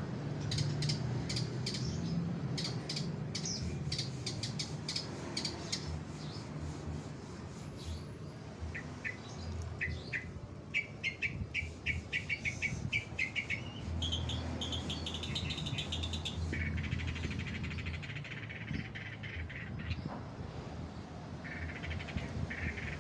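Long-tailed shrike calling: rapid ticking chatter, then runs of short sharp notes and several harsh buzzy rasps, over a steady low hum.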